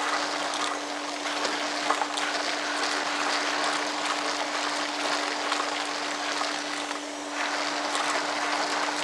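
Wet and dry vacuum cleaner running, its motor giving a steady hum under a loud rush of suction as it draws water and clay pebbles up the hose, with scattered clicks of pebbles rattling through. The rushing dips briefly about a second in and again around seven seconds.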